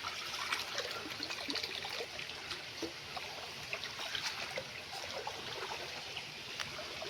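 Shallow stream water flowing and trickling, with many small clicks and taps scattered through it.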